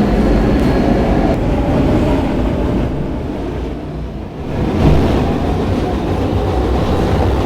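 Siemens R160B subway train running along the track: a steady low rumble of wheels and running gear, which dips briefly about four seconds in and comes straight back up.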